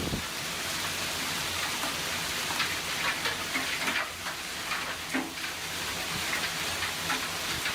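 Hail falling hard: a dense, steady hiss with an irregular spatter of sharp hailstone hits on surfaces.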